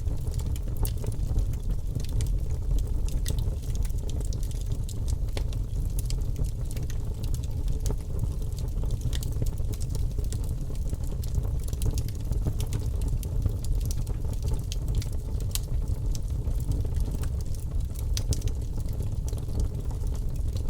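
Wood logs burning in a fireplace: a steady low rumble under frequent, irregular sharp crackles and pops.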